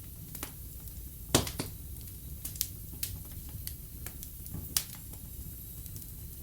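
Wood fire burning in a fireplace, crackling with irregular sharp pops over a low steady rumble of the flames; the loudest pops come about a second in and again near the end.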